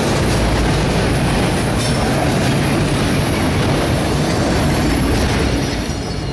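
Autorack freight cars rolling past on curving track: a steady loud rumble of wheels on rail with wheel squeal from the curves. It eases a little near the end.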